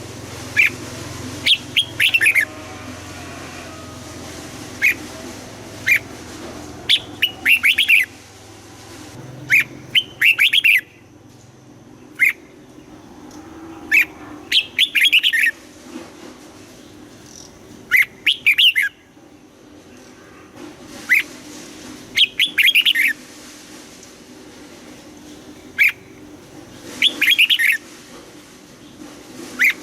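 Red-whiskered bulbul singing: short, bright phrases of a few quick notes, repeated every couple of seconds over a low background hum.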